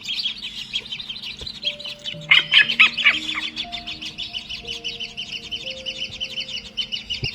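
Nestling birds chirping rapidly and continuously in high, quick notes, loudest about two seconds in, over soft background music.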